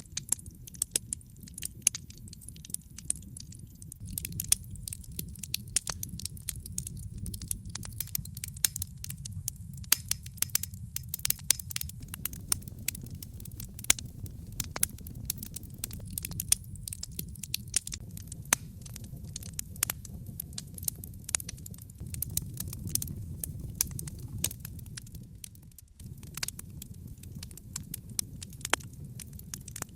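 Wood fire burning in a fireplace, crackling: many irregular sharp pops and snaps from the burning logs over a low, steady rumble.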